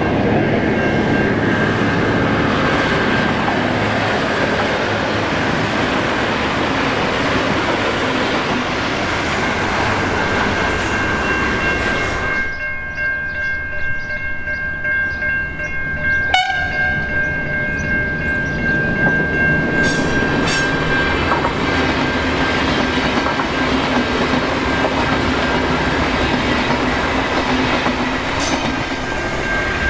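Passenger train passing close by, with rolling wheel and track noise and a steady high-pitched tone throughout. The noise drops for a few seconds about halfway through, broken by a single sharp click, then builds up again.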